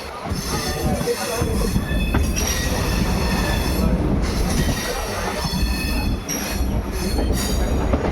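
Train wheels rolling on rails with a heavy rumble that builds about a second in, overlaid by high-pitched metallic wheel squeal whose tones come and go.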